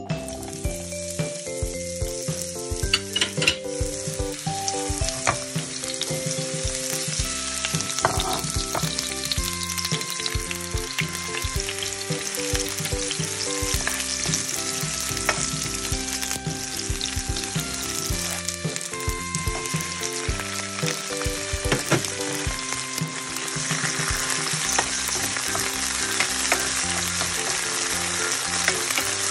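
Sliced onions sizzling in hot cooking oil in a nonstick frying pan, stirred with a spatula that clicks against the pan now and then. The sizzling grows louder near the end as more food goes in.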